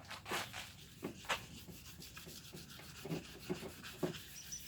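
Hand wet-sanding a plastic motorcycle part with 320-grit sandpaper: irregular rubbing strokes as the surface is scuffed so the adhesion promoter and paint will stick.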